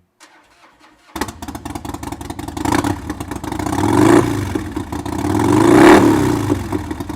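Harley-Davidson Night Train's 88 cubic inch V-twin, breathing through a Screamin' Eagle slip-on muffler and open-air intake, catching on the starter about a second in and idling, then revved twice, each time rising and falling back to idle.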